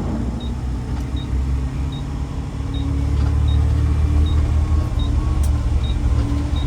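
A road vehicle's engine running with a steady low hum that rises slightly about halfway through, and a short high beep repeating about every three-quarters of a second.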